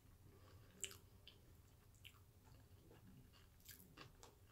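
Faint, quiet chewing of a mouthful of sushi, with a few soft clicks spread through it.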